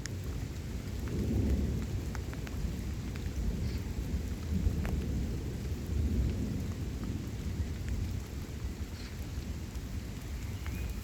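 Thunderstorm: rain falling with a continuous low rumble of thunder that swells about a second and a half in and again around six seconds, with scattered drop ticks over it.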